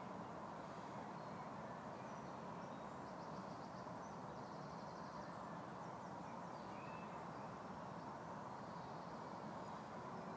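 Woodland outdoor ambience: a steady low background hiss with faint bird calls, including a quick high trill about three seconds in.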